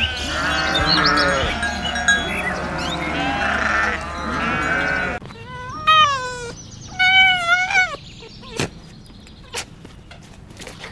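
Goats bleating, several voices overlapping, stopping abruptly about five seconds in. Then two short wavering calls about a second apart, followed by a few faint taps.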